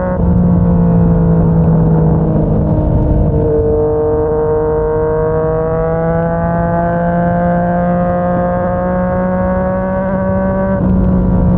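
Yamaha MT-09's three-cylinder engine through a Yoshimura R55 slip-on exhaust, running under way. The pitch shifts about three seconds in, then climbs steadily as the bike accelerates, and shifts again near the end.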